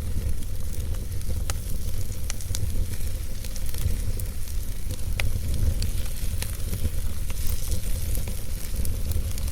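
Campfire burning: a steady hissing sizzle with sharp crackling pops every second or so, over a low rumble.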